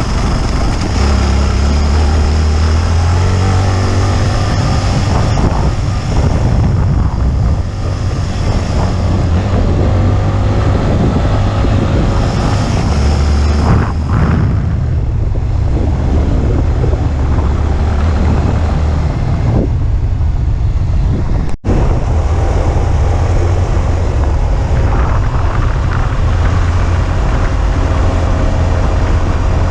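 Motorcycle engine running while riding, a steady low rumble with wind noise over the microphone. The sound drops out for an instant about 21 seconds in.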